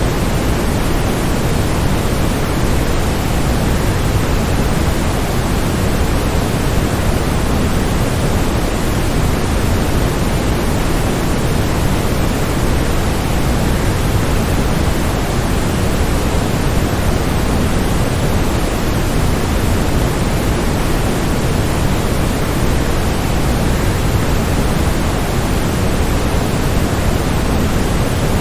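Waterfall rushing as a steady, even wash of noise, heaviest in the low end, with no breaks or changes.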